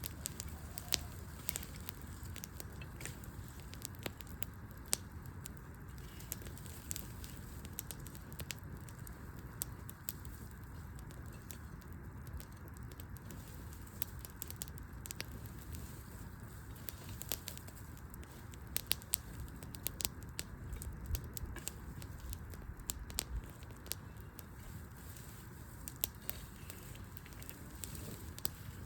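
Wood campfire burning, crackling with many small sharp snaps scattered irregularly throughout and a few louder pops.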